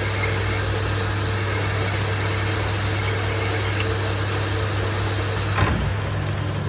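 Metal lathe running steadily with a deep, constant hum and a faint steady tone over a noisy background. A single brief sharp knock or scrape comes a little over five seconds in, after which the tone drops away.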